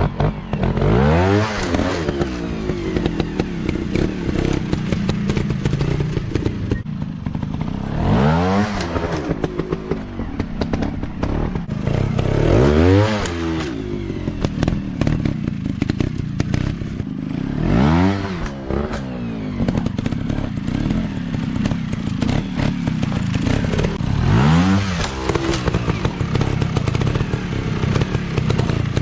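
Dirt bike engines running, with five quick revs that rise and fall back sharply, spaced several seconds apart, over a steady engine drone. Clatter and knocks come from the bikes working over rough ground.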